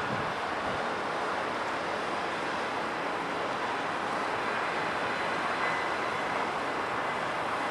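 Dassault Falcon 2000 business jet's twin turbofan engines at takeoff power: a steady rushing jet noise with a faint high whine.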